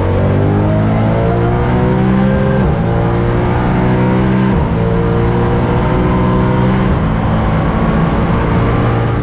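BMW M3 race car engine running hard on track, its note held high and then stepping abruptly to a new pitch about three times.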